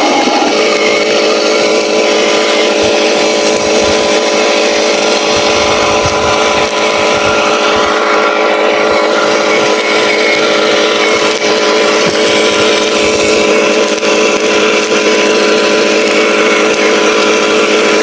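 Simulated truck engine sound from a remote-control logging truck, running steadily at an even pitch. It sounds thin, with no deep bass, as if played through a small speaker.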